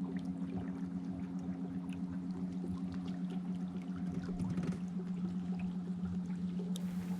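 Electric canoe motor running at a steady, even hum, with water rushing and trickling along the hull as the canoe moves.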